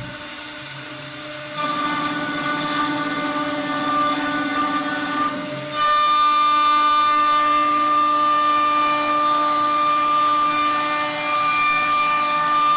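CNC router spindle running a router bit through wood, a steady multi-toned whine that grows louder about a second and a half in and again about six seconds in as the cut takes more load.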